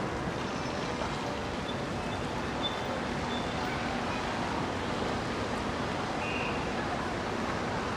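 Steady city street ambience: an even wash of noise with no distinct events, only a few faint high tones.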